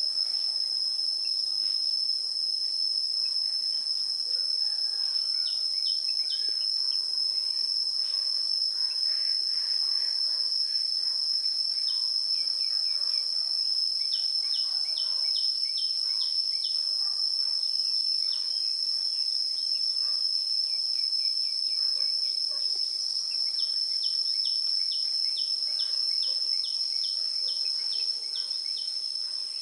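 A continuous, steady, high-pitched cricket trill, with runs of short, quick descending chirps from a baby bird, several a second, coming in bouts a few times.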